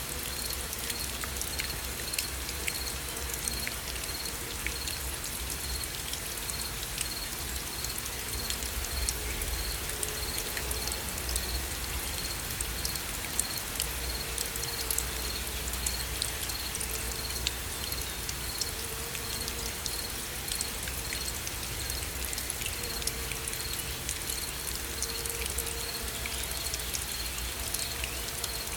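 Steady rain, with a dense patter of individual drops ticking. A faint high chirp repeats evenly through it.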